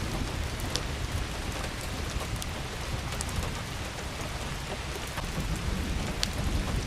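Steady rain falling on a roof, with a low rumble underneath and scattered sharp drip ticks.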